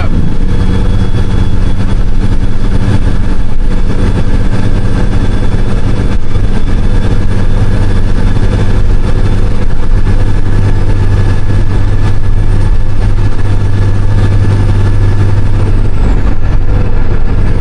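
Western Star semi truck's diesel engine running steadily at an even speed.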